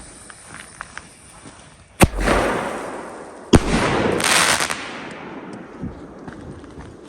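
Two consumer firework bangs about a second and a half apart, each followed by a noisy tail that fades over a second or two, with a burst of high hiss after the second bang.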